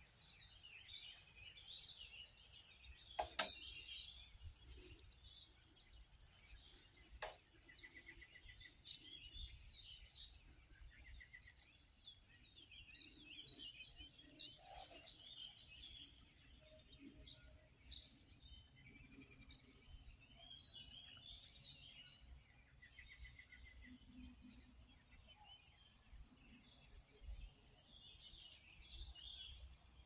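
Faint songbirds chirping and singing, many short calls overlapping. Two sharp clicks stand out, the louder about three seconds in and another about seven seconds in.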